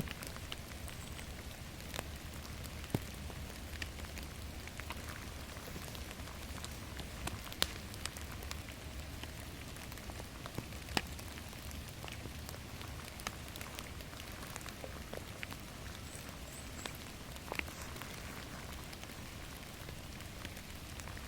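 Steady rain falling in a forest, an even patter broken by scattered sharp ticks from single drops or crackles, about one every second or two.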